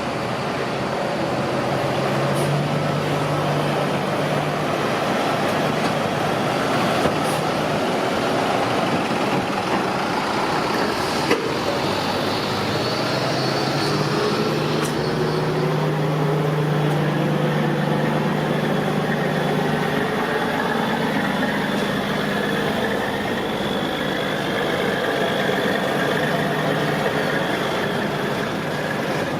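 Diesel truck and bus engines running with steady road traffic: a continuous low engine hum that shifts slightly in pitch now and then over a wash of traffic noise.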